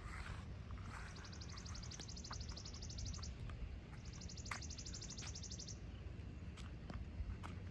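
Two high, rapid trills, each lasting about two seconds, from an animal call. A few light clicks and a steady low rumble run underneath.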